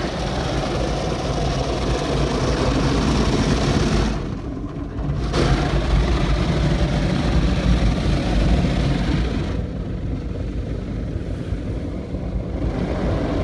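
Automatic car wash machinery working over the car, heard from inside the cabin: a steady rushing of water and washing gear with a deep rumble. The hiss drops away briefly about four seconds in and again for a few seconds near ten seconds in, as the machine moves around the car.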